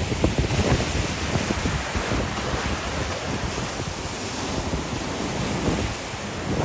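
Surf washing on a beach in a steady rush, with strong wind buffeting the microphone in irregular low rumbles.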